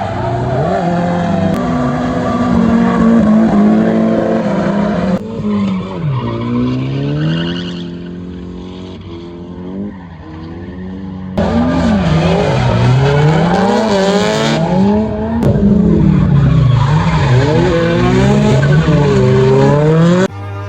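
Tuned Japanese track cars at full throttle on a circuit, engines revving up and dropping back over and over as they shift and lift. Abrupt changes about five seconds in and again past eleven seconds. Between those two points the sound is quieter, with an engine note falling away.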